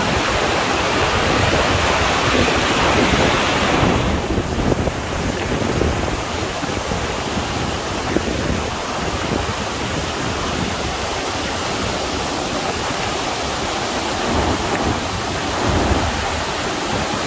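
Steady rush of a large waterfall, the Cascata delle Marmore, close by, with wind buffeting the microphone. The hiss of the water thins a few seconds in.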